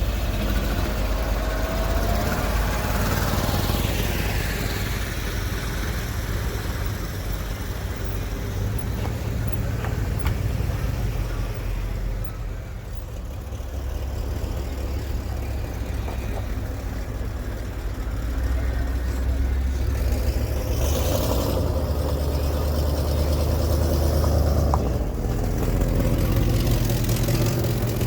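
Car engines running as vehicles roll by at low speed, a steady low rumble with the engine note shifting in pitch in the first few seconds and getting louder again in the second half.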